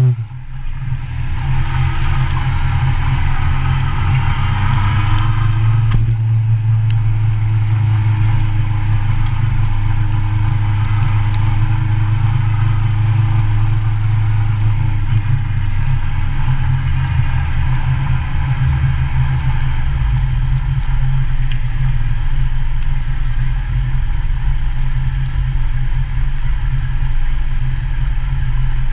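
Motorcycle engine running steadily with a low rumble while riding. Its note eases slowly lower through the first half and settles to a lower, even run after about twenty seconds.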